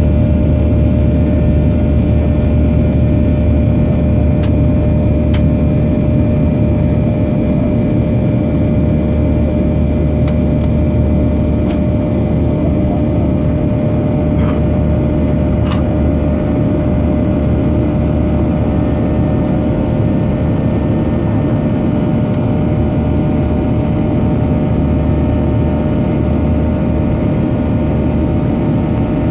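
Steady jet engine and airflow noise of a Boeing 737-800's CFM56 turbofans holding constant thrust, with a low rumble and a few steady hum tones. A few faint ticks sound over it.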